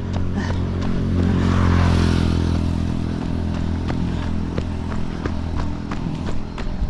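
A motor vehicle, likely a motorbike, passing on the road, its engine loudest about two seconds in and then fading, with the runner's footfalls ticking steadily.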